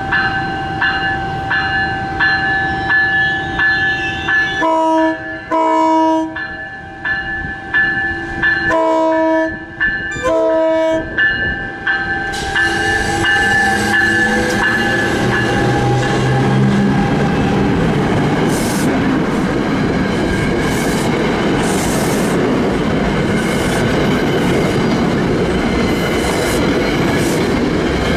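Grade-crossing bells ringing steadily as an NJ Transit ALP-45DP locomotive approaches and sounds its horn in four blasts, two about 5 seconds in and two about 9 to 11 seconds in. From about 12 seconds in, the locomotive and its multilevel coaches run past close by, with wheel clacks over the crossing.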